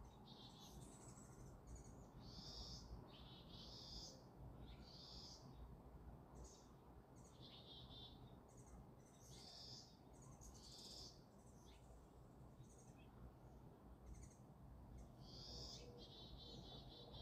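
Faint songbirds chirping, with many short high calls and trills coming one after another, over a steady low background rumble.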